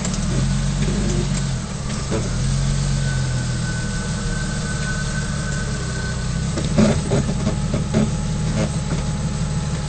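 Off-road 4x4's engine running low and steady while crawling over rocks, with a few sharp knocks about seven and eight seconds in.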